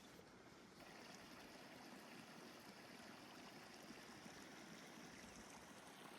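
Faint, steady water noise, a little louder from about a second in.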